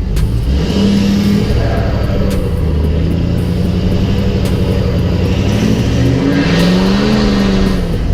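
Lifted pickup truck doing a burnout: the engine held at high revs with a rise about a second in and another swell near the end, over the hiss of spinning tyres.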